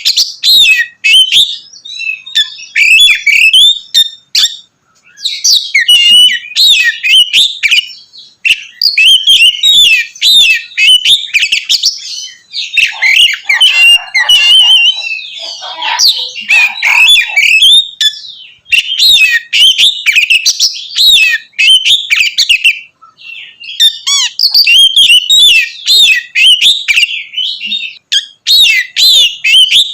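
Oriental magpie-robin (kacer) singing its loud, full song: fast runs of varied whistles, chirps and rasping notes in bursts of several seconds, with brief pauses between them.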